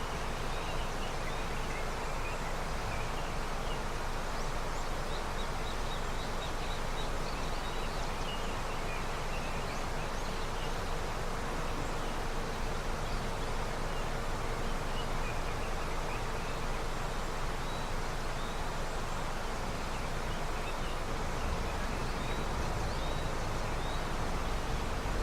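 Steady rushing of a river running with snowmelt, with faint short bird chirps now and then.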